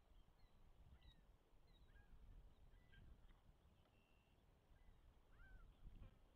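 Near silence: faint, scattered short bird chirps over a low outdoor rumble.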